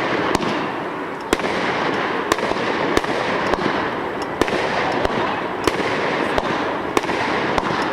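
225-shot consumer fireworks repeater cake firing: sharp bangs about once every half-second to second over a continuous dense hiss from the bursting shells.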